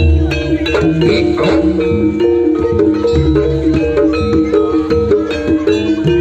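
East Javanese jaranan music played loud through a sound system: gamelan metallophones strike quick, repeating notes over drums and a heavy, deep bass pulse.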